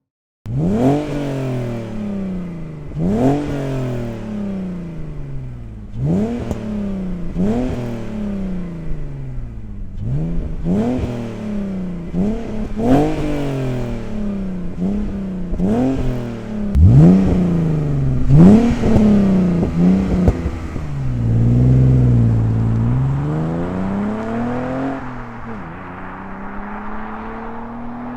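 BMW E46 330i's 3.0-litre M54 straight-six breathing through a Scorpion 2-inch stainless-steel exhaust, blipped about ten times, each rev rising sharply and falling away. It then dips and climbs more slowly before settling to a steadier drone near the end.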